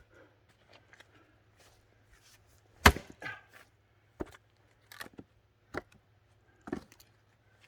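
An axe strikes and splits a log with one loud, sharp crack about three seconds in, followed by a smaller wooden knock. Several lighter wooden knocks follow at intervals of about a second.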